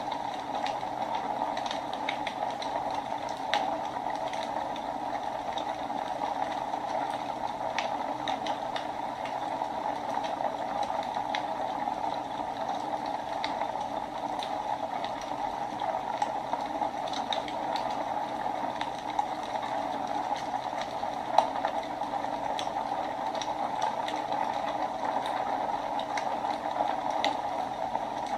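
Wood fire burning in a fireplace: a steady hiss of flames with scattered small crackles and a few louder pops.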